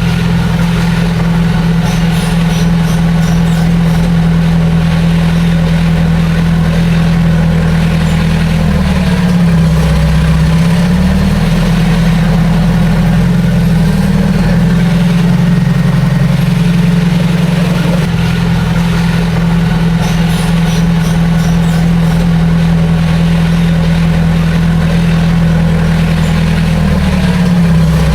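Heavy diesel engine of a bulldozer or dump truck at a construction site, running steadily and loud. The engine note dips briefly twice, about ten seconds in and near the end.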